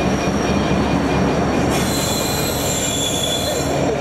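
Container freight train hauled by a Class 66 diesel locomotive rolling past at close range, its wagons' wheels rumbling steadily on the track. High-pitched wheel squeal sets in about halfway through and dies away near the end.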